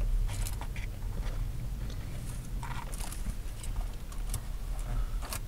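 A person chewing a breaded fried mushroom, with irregular short crunches, over a steady low hum.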